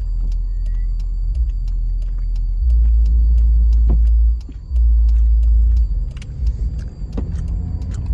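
Jeep Liberty heard from inside the cabin on the move: a deep engine and road rumble that swells much louder for a few seconds in the middle, dips briefly, then comes back, with faint regular light clicks over it.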